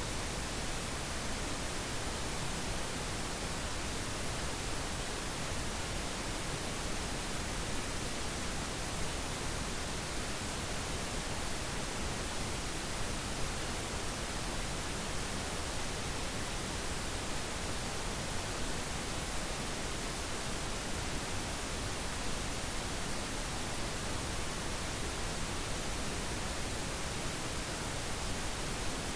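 Steady synthetic pink noise: an even, unchanging hiss across the whole range of pitch, with no events in it.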